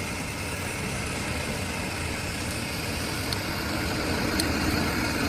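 Heavy machinery running steadily, a low rumble with hiss, growing slightly louder.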